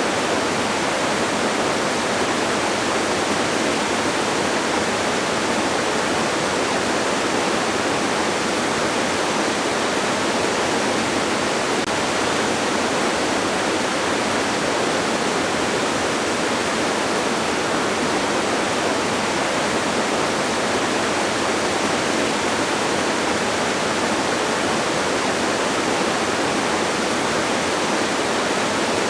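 Distant waterfall: a steady, even rush of falling water with no breaks or changes.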